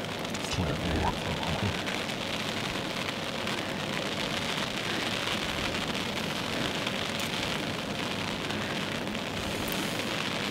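Steady heavy rain pouring down, an even hiss of rain on a surface, with a couple of faint knocks about a second in.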